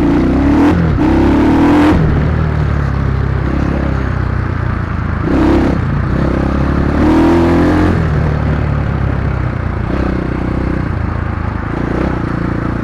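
Dirt bike engine running under way, revving up and easing off: rises in pitch at the start, about five seconds in and again about seven seconds in.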